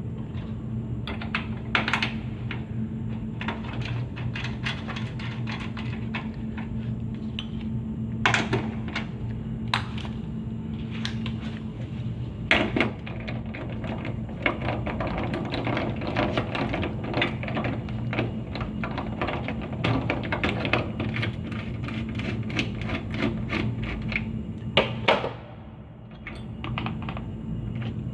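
Scattered clicks, clinks and knocks of hand-tool work, typical of taking off or fitting a radiator hose and its clamps, over a steady low hum.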